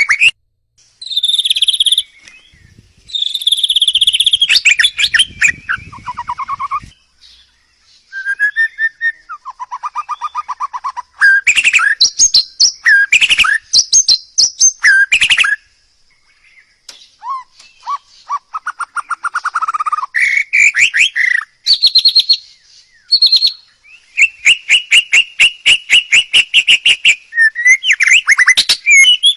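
A caged songbird singing loudly and close up in a long, varied song: phrases of fast repeated notes and trills broken by short pauses.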